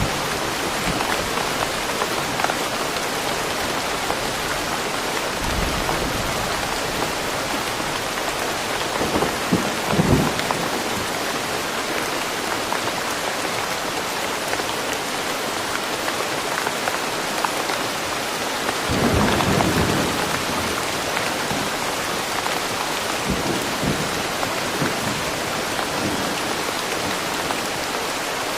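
Steady, even rain, with two brief louder rumbles of thunder: one about ten seconds in and a longer one a little before the twenty-second mark.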